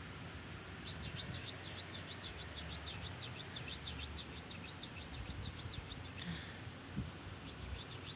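Small birds chirping: a fast run of short, high, falling chirps, several a second, starting about a second in. A low rumble and a soft knock near the end lie underneath.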